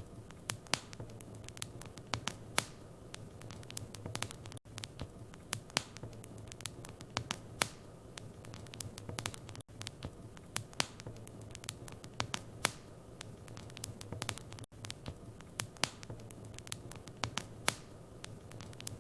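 Wood fire in a fireplace crackling, with irregular sharp pops and snaps over a low steady hum. The sound drops out for an instant about every five seconds.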